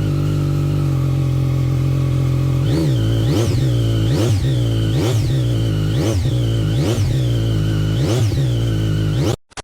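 A ZXMOTO 820RR's three-cylinder engine idling, then blipped to rev quickly about eight times in an even rhythm, roughly one rev a second, each rising and falling in pitch.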